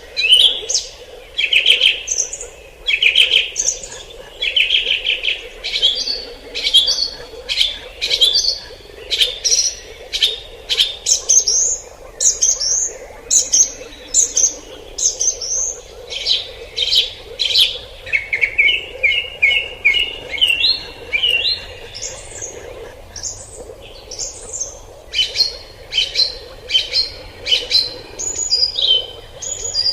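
Forest birds chirping and singing continuously, with many short, quick calls overlapping. About eighteen seconds in, one bird gives a run of notes that climb in pitch step by step.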